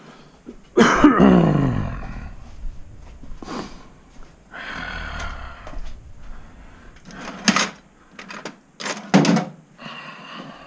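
Things being moved and handled: a loud sound about a second in that slides down in pitch over about a second, then scraping and two sharp clanks later on.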